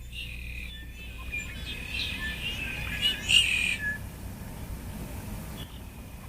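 Songbirds chirping and trilling in quick, overlapping calls over a steady low background rumble, with a louder burst of chirps about three seconds in.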